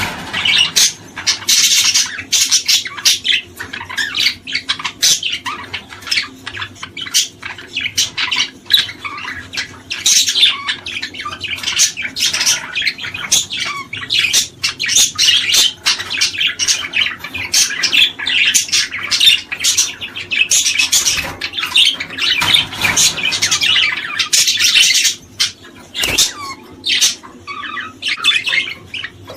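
A group of small birds chirping and chattering together, a dense stream of sharp, rapid calls that thins out to scattered chirps near the end.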